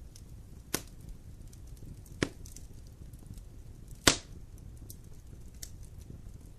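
Campfire burning with a low rumble and faint crackling, broken by three sharp pops of burning wood, the loudest about four seconds in.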